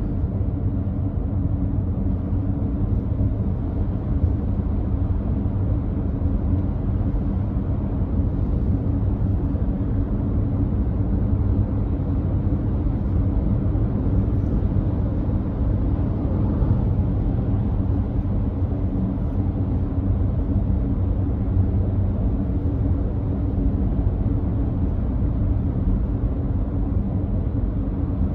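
Steady road and tyre noise heard inside the cabin of a first-generation Nissan Note e-POWER cruising at constant speed on a wet expressway, a deep even rumble with a low hum under it.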